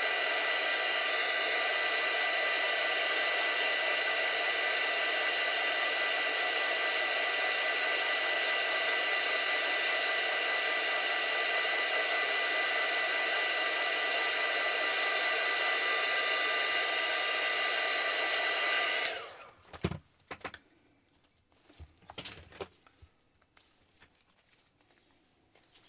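Heat gun blowing steadily, with its fan's whine over the rush of air, heating the new iPad glass to activate its adhesive. It shuts off abruptly about 19 seconds in, followed by a few light knocks.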